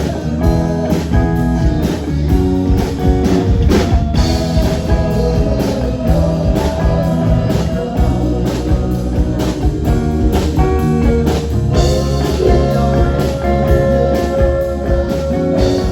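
Live band playing a blues-rock song: electric guitar lines over drum kit and bass, with no singing.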